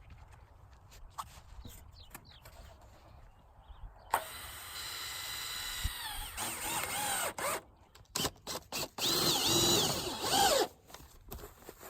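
Power drill running in several bursts of a second or two, starting about four seconds in, its motor pitch dipping and recovering between bursts.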